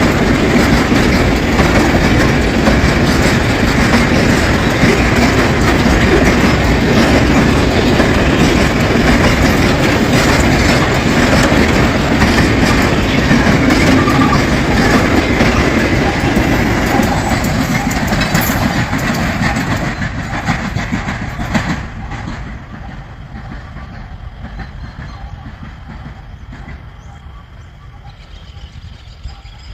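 Empty freight train's wagons rolling past with the clickety-clack of wheels over rail joints. The sound drops away sharply about 21 seconds in and stays much fainter after that.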